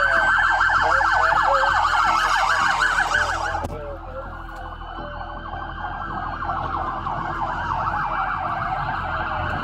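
Police car sirens running, a fast yelp overlapping a slower rising and falling wail; the sound drops in level suddenly about three and a half seconds in.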